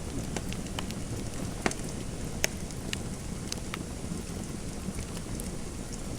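Fireplace fire crackling: a steady low rumble of burning with irregular sharp pops and snaps, two louder pops near the middle.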